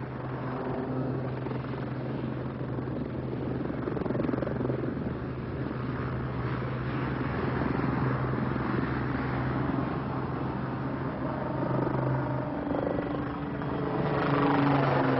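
Westland Lynx helicopter, powered by two Rolls-Royce Gem turbines, in flight: a steady rotor and turbine noise with a low hum, growing louder near the end.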